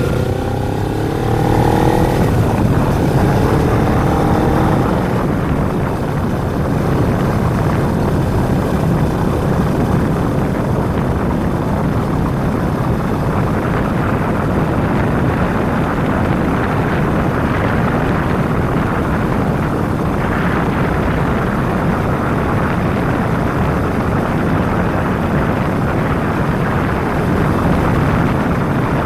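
Kawasaki Ninja 250's parallel-twin engine pulling with its pitch rising over the first few seconds, then steady cruising drowned in heavy wind rush.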